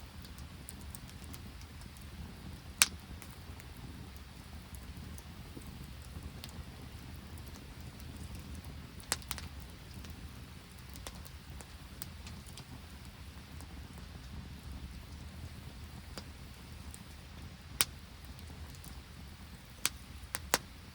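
Open wood campfire burning with a steady low rumble and a handful of sharp, scattered pops, the loudest about three seconds in and a cluster near the end.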